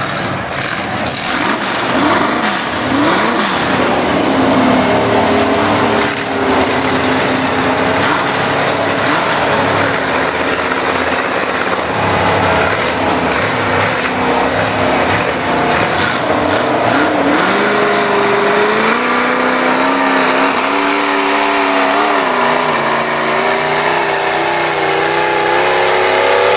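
Mud-bog truck engine running hard under load and revving, its pitch rising about two-thirds of the way in, then swinging up and down in repeated revs.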